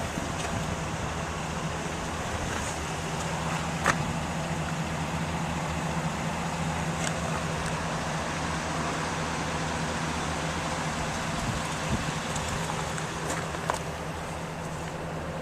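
Chevrolet Silverado 2500HD pickup engine idling steadily, with a few short sharp clicks, the loudest about four seconds in.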